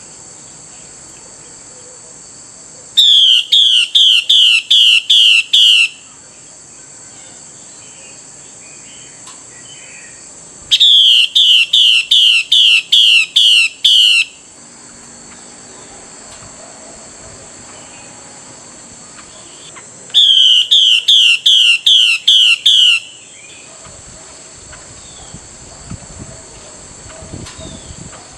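Female Chinese hwamei calling the male in three bursts, each a run of about eight loud, clear notes that fall in pitch, roughly three a second for about three seconds. A steady high-pitched drone runs underneath.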